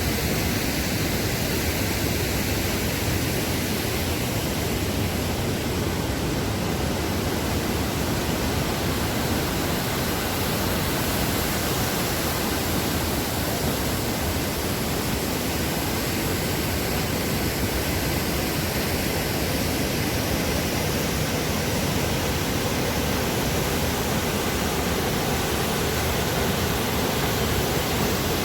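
Water pouring down the Dubai Water Canal's man-made waterfall: a steady, even rush.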